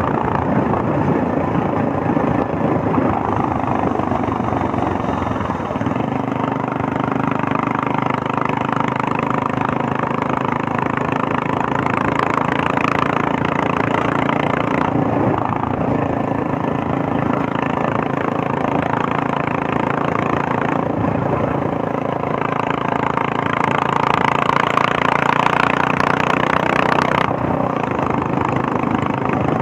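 Royal Enfield Meteor 350's single-cylinder engine running under way, a steady thumping exhaust note that the rider likens to a helicopter, rising and falling a little with the throttle.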